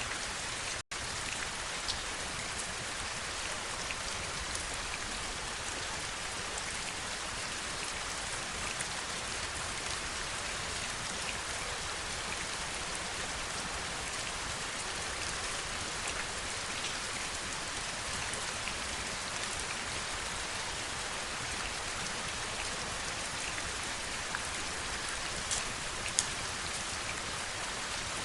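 Steady heavy rainfall, an even hiss with a few louder single drops striking now and then. The sound cuts out for an instant about a second in.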